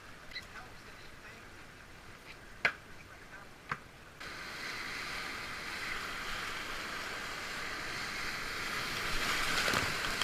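Water dripping with two sharp taps, then about four seconds in the steady rush of whitewater rapids starts abruptly and builds toward the end.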